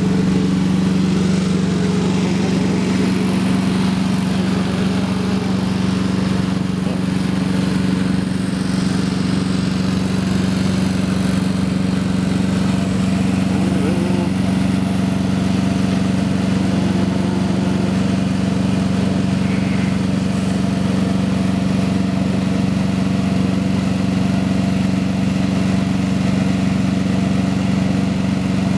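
Peterbilt 386 semi truck's Cummins ISX diesel engine idling steadily, a constant low, even drone with no revving.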